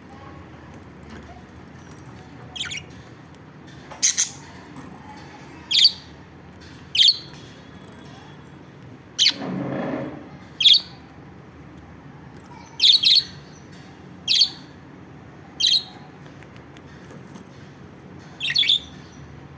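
Lovebirds giving about ten short, sharp, high-pitched chirps at irregular intervals, with a brief lower, noisier sound just before halfway through.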